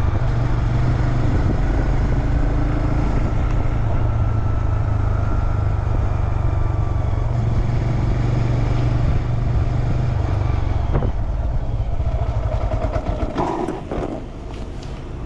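Honda Grom's single-cylinder engine running steadily at low road speed, then dropping off as the motorcycle slows to a stop near the end.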